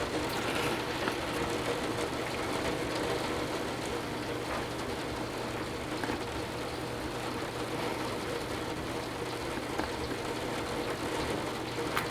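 Torrential thunderstorm rain pouring down in a steady, unbroken rush.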